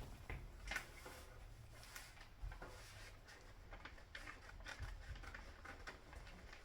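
Faint, scattered light clicks and taps, a few each second, over low room tone.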